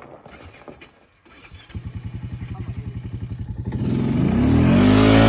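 A small off-road vehicle engine, a dirt bike or ATV, comes in after a quiet start, running with an even fast putter, then revs up and back down near the end.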